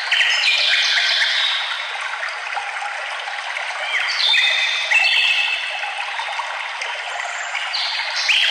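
A songbird sings three short phrases of clear notes that step up and down in pitch, about four seconds apart, over the steady rush of running water.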